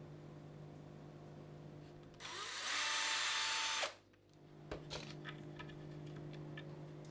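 A small electric power tool runs in one short burst of about a second and a half, then stops abruptly. A few light clicks and taps follow.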